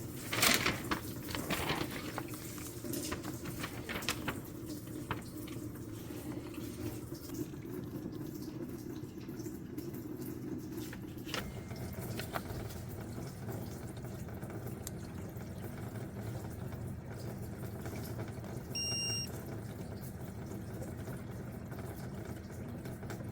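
Tap water running steadily through a newly installed water filter to flush it. A few light knocks come in the first seconds, and a short electronic beep sounds near the end.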